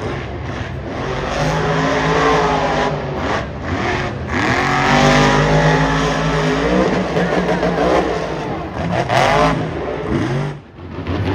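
Monster truck's supercharged V8 revving hard, its pitch climbing and falling repeatedly as the throttle is worked, with several short breaks in the sound.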